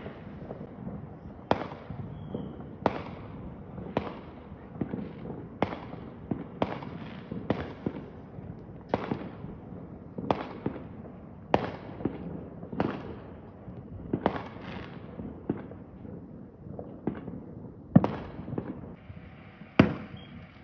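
Fireworks going off in a steady string of sharp bangs, about one a second, each trailing off into an echo over a continuous low rumble. The two loudest bangs come near the end.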